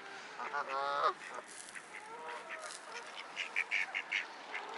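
Geese and ducks calling: a drawn-out honk about half a second in, then a quick run of about five short calls near the end.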